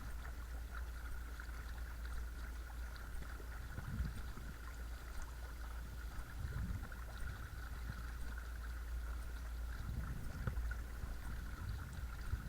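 Watersnake T24 12-volt electric trolling motor running steadily with a thin whine, over a low rumble of water against the kayak's hull and a few soft knocks.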